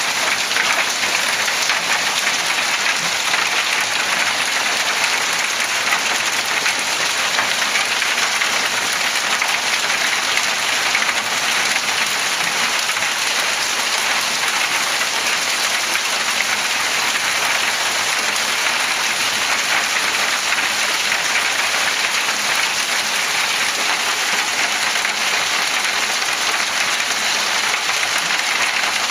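Hail and heavy rain falling on surfaces in a thunderstorm, a dense, steady patter that keeps up at an even loudness throughout.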